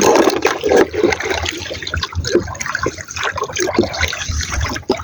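Seawater sloshing and lapping against the hull of a small boat, an irregular splashing churn that swells and ebbs.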